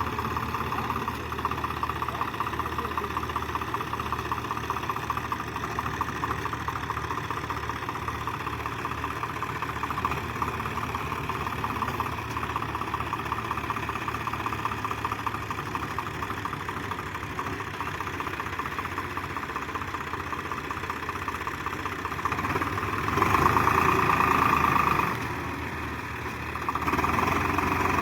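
Swaraj 744 FE tractor's three-cylinder diesel engine running steadily, getting louder for about two seconds around 23 seconds in and again near the end.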